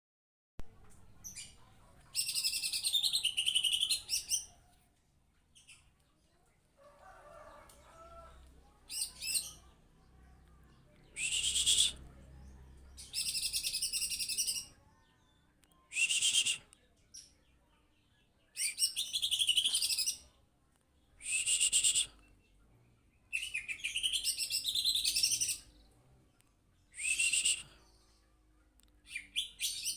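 A caged songbird singing hard in repeated high-pitched song phrases, each one to two seconds long, about ten of them with short pauses between.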